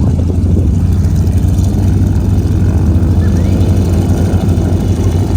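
Loud, steady, low engine drone.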